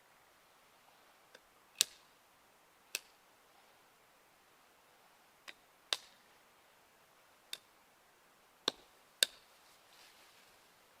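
About eight sharp, short cracks at irregular intervals, with the loudest near the start and near the end, over an otherwise quiet background.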